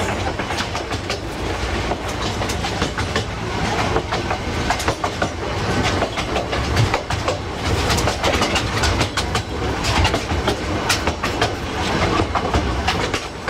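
Passenger train carriages running along the track: a steady low rumble with irregular clattering clicks and knocks from the wheels on the rails.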